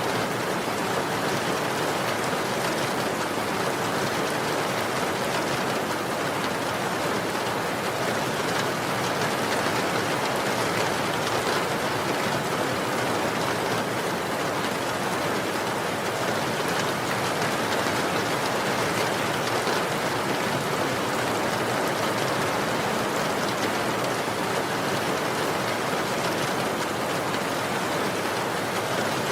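Steady rainfall, an even unbroken hiss of rain on surfaces with no separate drops or thunder standing out.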